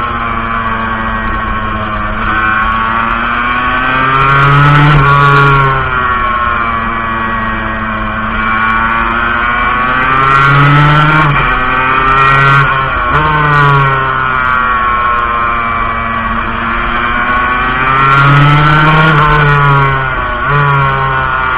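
Montesa Cappra 125 two-stroke single-cylinder motorcycle engine running under a rider on the move, its pitch rising and falling as it accelerates and eases off, with louder peaks about five, eleven and nineteen seconds in.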